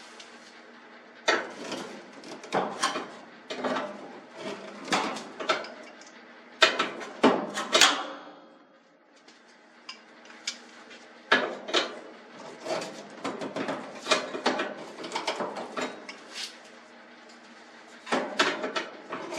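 Metal clinking and clattering of hand tools and garage door hardware, irregular knocks in clusters, as the roller guide on the door track is fitted back in place; it eases off briefly about halfway through.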